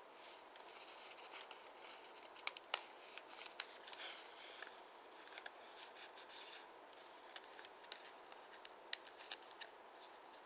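A square of origami paper being handled and folded: faint rustling with scattered crisp ticks as creases are pressed.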